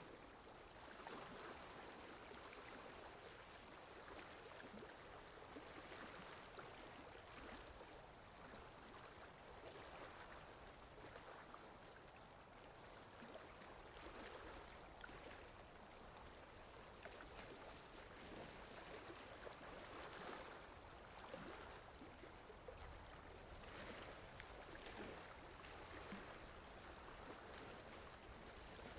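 Faint, steady rainfall: an even patter that gently swells and eases every few seconds.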